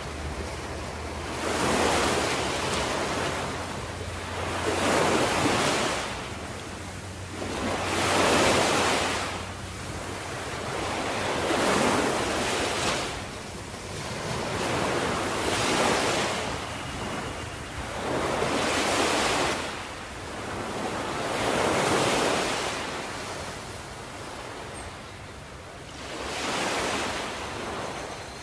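Ocean waves breaking and washing ashore, each wave swelling and fading about every three to four seconds.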